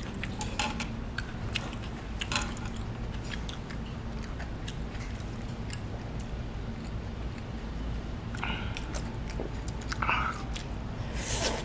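People chewing and biting food, with scattered short crunches, over a steady low hum.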